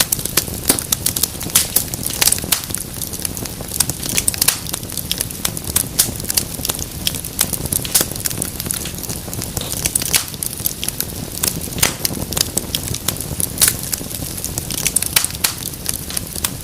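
Wood fire crackling and popping steadily, with many irregular sharp snaps over a low, even rumble of burning.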